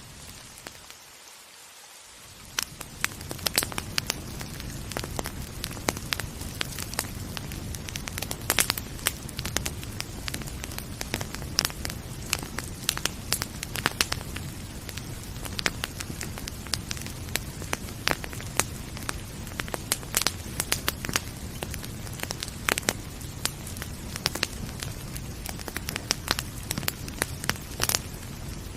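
Wood fire crackling with frequent sharp pops over a steady rain hiss. The sound briefly drops quieter in the first couple of seconds, then comes back up.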